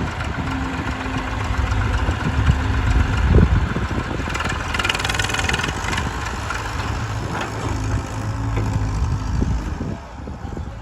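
Diesel engine running steadily, louder for a moment about three seconds in, with a hissing rush about four to six seconds in.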